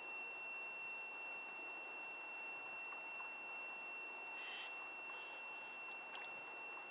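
Faint pond ambience with a short bird call about four and a half seconds in and a softer one just after. A steady high-pitched whine runs underneath.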